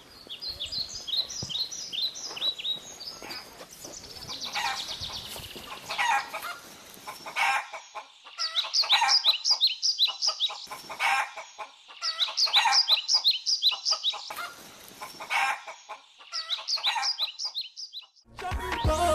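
Birds chirping: many quick falling chirps in bursts of a second or two, with lower calls mixed in.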